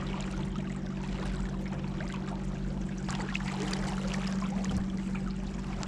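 Boat motor running at a steady pitch, with water rushing past the hull.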